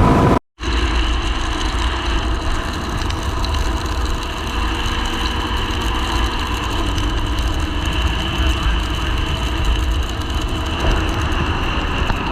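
Yamaha WR250R's single-cylinder engine running steadily. The sound cuts out for a moment about half a second in.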